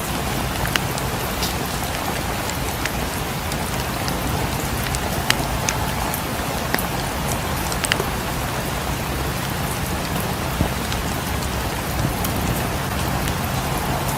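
Steady rain falling on a cabin, with a dozen or so sharp crackles from a wood fire popping at irregular moments over it.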